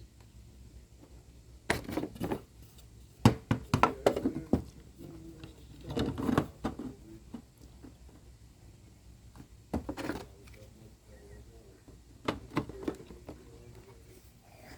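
Irregular knocks and clunks of kayak rod holders being handled and fitted back onto the plastic kayak hull, in several short clusters.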